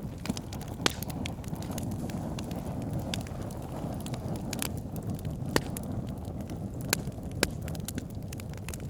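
Wood fire burning: a steady low rushing sound with irregular sharp crackles throughout, and a few louder pops, the biggest about a second in and around five and a half, seven and seven and a half seconds in.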